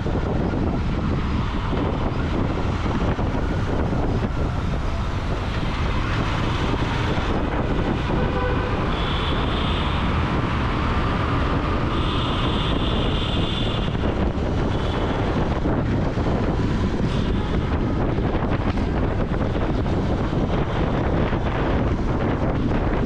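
Royal Enfield Continental GT 650's parallel-twin engine and exhaust running steadily under way, with wind on the microphone. Two brief high-pitched tones sound near the middle.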